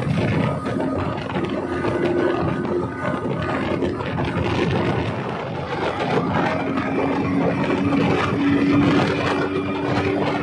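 Wooden passenger speedboat's engine running flat out, a loud steady drone with a constant low tone over rushing noise.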